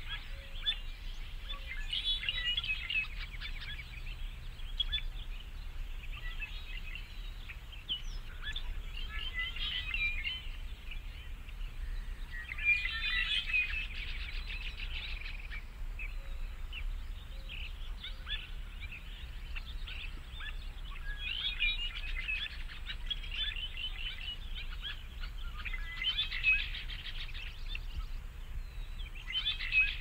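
Small birds chirping in repeated bursts of rapid high chirps, a cluster every few seconds, over a steady low hum.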